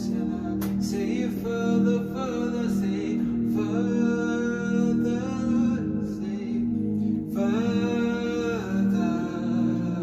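Worship song: a singing voice over sustained, slowly changing chords.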